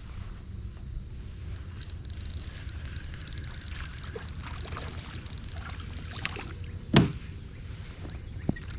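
Kayak fishing sounds: a steady low rumble throughout, with fine high crackling for a few seconds early on. A sharp knock comes about seven seconds in and a lighter one near the end.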